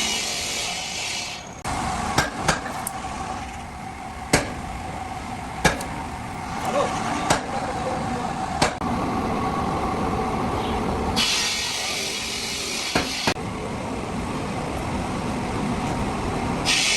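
Irregular sharp knocks, like hammer blows on hard material, over a steady mechanical hum. Spells of loud hiss start and stop abruptly.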